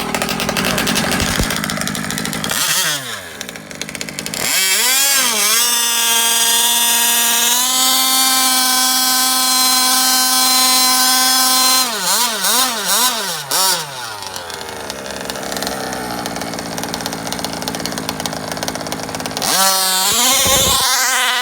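Small gas two-stroke RC car engine with a tuned pipe being revved: several quick throttle blips, then held at a steady high pitch for about six seconds, more blips, a rougher lower running, and another burst of blips near the end.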